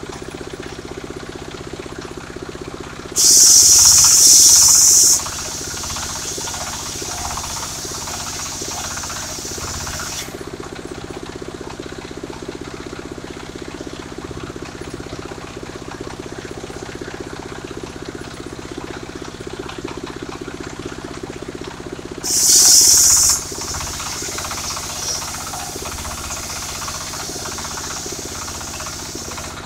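Engine-driven portable circular sawmill running steadily while its blade rips through sengon timber. There is a loud high hiss of the cut about three seconds in, lasting about two seconds, and another brief one about 22 seconds in, each followed by quieter cutting noise over the engine's steady hum.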